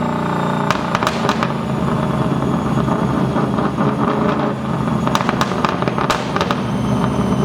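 Widebody Chevrolet Camaro's engine on a chassis dyno, off the throttle between pulls: a steady note gives way under a second in to a rough, choppy running note with the exhaust crackling and popping.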